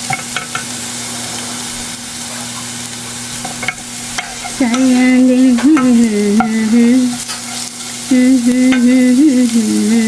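Enoki mushrooms sizzling in hot oil in a frying pan, stirred with a few clicks of the utensil against the pan. From about halfway a woman hums a tune over the sizzle.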